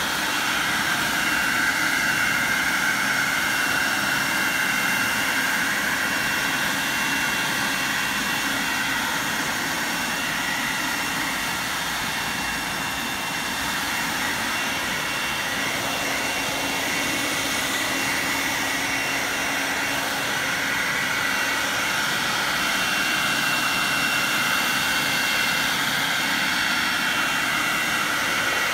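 Bosch garden leaf vacuum running continuously, a steady rush of air with a high whine over it that sags and recovers slightly midway.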